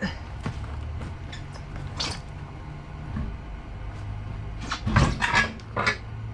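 Clanks and knocks of tools and metal parts during work on a pickup's wheels, several sharp ones spread out and a cluster of loud clanks near the end, over a steady low hum.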